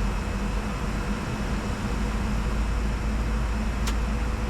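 Steady cockpit noise of a Bombardier Challenger 605 business jet in descent: a constant rush of air and ventilation over a low hum. A single short click about four seconds in.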